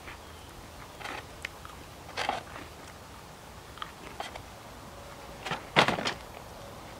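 A mouthful of crunchy sugar cookie being chewed, with scattered short crackles and rustles from hands handling something, the loudest about six seconds in.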